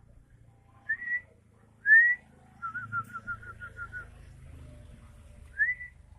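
White-rumped shama (murai batu) singing: two clear rising whistles, then a quick run of about eight short notes, then another rising whistle near the end.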